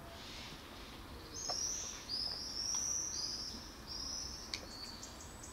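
A bird calling: a run of about six high whistled notes over roughly three seconds, with a few sharp clicks among them.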